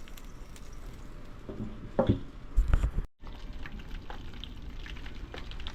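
Food sizzling and crackling faintly on a hot flat-top griddle, with a few knocks and thumps of handling about two to three seconds in, then a brief sudden break.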